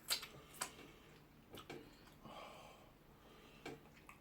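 Faint sharp breaths and sniffs from someone eating fiery fresh pepper, with a few short clicks from the mouth.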